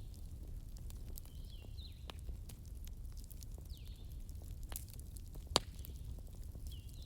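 Campfire burning with a low steady rumble and scattered crackles and pops, one sharp pop about five and a half seconds in. A short high descending chirp repeats about every two seconds over the fire.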